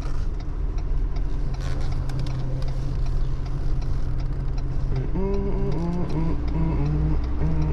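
Tow truck's engine running steadily as a low drone.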